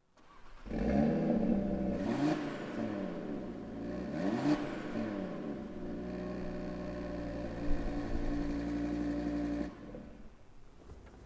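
Audi TT RS's 2.5-litre turbocharged five-cylinder engine starting up about a second in. It is revved twice in Park, the pitch rising and falling each time, then idles steadily. It is switched off near the end.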